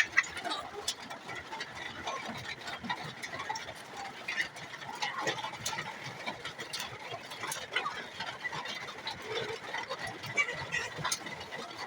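Chickens in a poultry yard: scattered short clucks and peeps amid many small irregular clicks.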